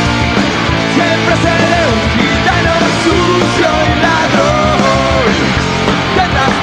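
Punk rock band playing live: distorted electric guitars, bass and drums, loud and steady, with a melodic line bending up and down over them.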